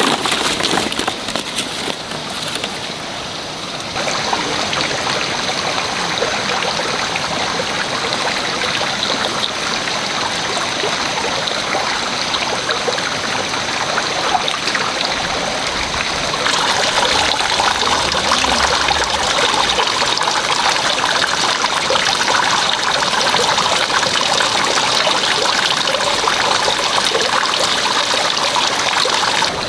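Water running steadily, with a faint high steady tone over it. The sound changes abruptly about four seconds in and grows louder about sixteen seconds in.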